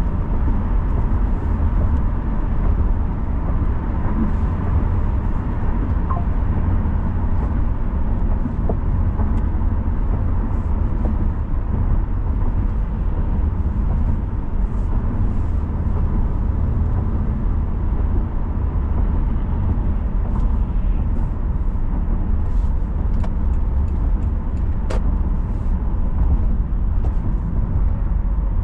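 Car driving along a road: a steady low rumble of engine and tyre noise, with a faint steady whine above it.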